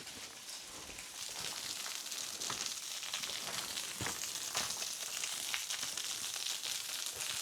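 Small waterfall splashing: a steady hiss of falling water that grows louder about a second in, with a few footsteps on the trail.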